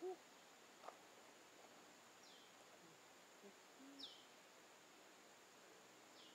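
Near silence with faint outdoor ambience: a bird gives a short, falling, high call three times, about two seconds apart, over a steady faint hiss.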